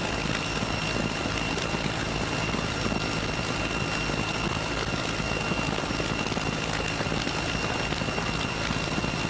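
Military transport helicopter in flight: steady turbine whine with one high tone and a continuous rumble of engines and rotor.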